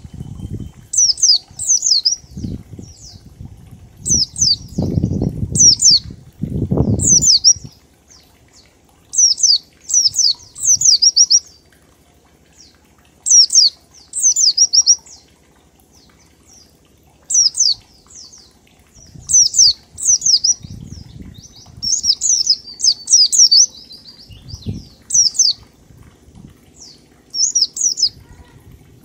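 White-eye (pleci) singing its rapid 'ngalas' song: short, high, down-slurred notes in quick groups of two to four, repeated every second or two. Several low fluttering bursts come between the groups, strongest a few seconds in and again past the middle.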